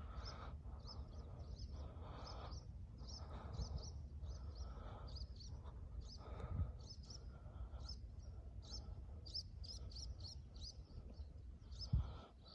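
Small birds chirping over and over in short high notes, over a steady low rumble of wind on the microphone. A single low thump comes near the end.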